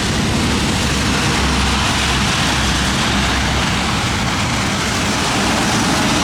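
Storm wind gusting against the microphone, a loud steady rush with uneven low rumbling.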